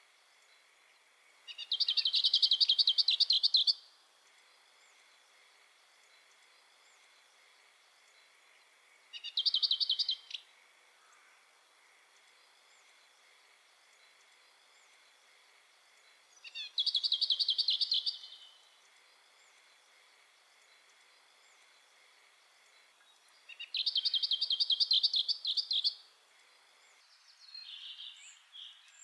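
A songbird singing four short bouts of fast trilled, repeated high notes, each lasting one to two seconds, with pauses of several seconds between them. A faint steady high-pitched whine runs underneath.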